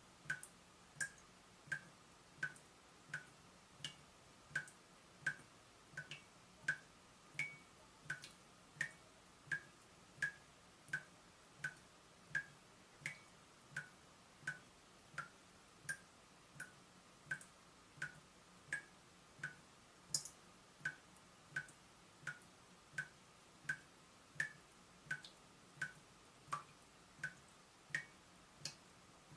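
Leaking tap dripping steadily, one faint drop about every two-thirds of a second, each landing with a short pitched plink.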